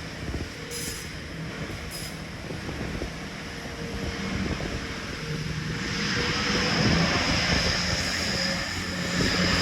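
Passenger train running at a station platform, with a steady hum and a high whine that grow louder about six seconds in.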